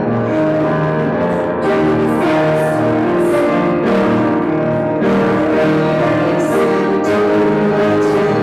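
A hymn sung with piano accompaniment, with sustained chords and a melody line throughout.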